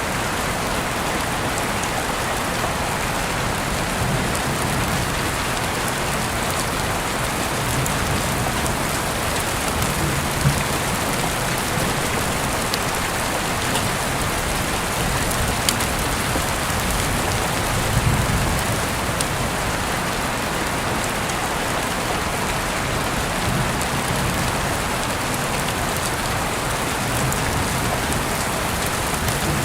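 Steady rain falling as a constant hiss, with a few sharp ticks now and then and a soft low swell about eighteen seconds in.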